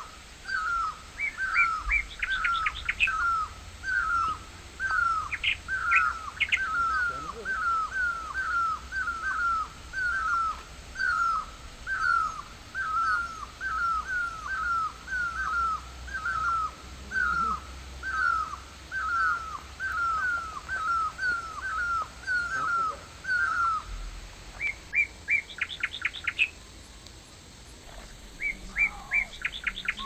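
Birds calling. One bird repeats a short, downward-slurred whistled note about twice a second and falls silent near the end. Another bird gives a few quick bursts of rapid high notes, near the start and again near the end.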